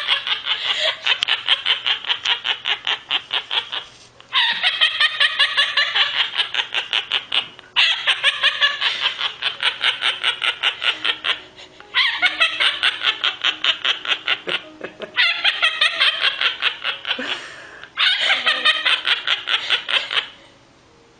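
Repeated bouts of rapid, rhythmic laughing, each a few seconds long, with short breaks between them.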